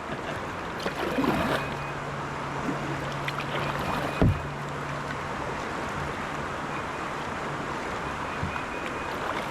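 Creek water running steadily around a kayak, with one sharp knock about four seconds in and a low steady hum during the first half.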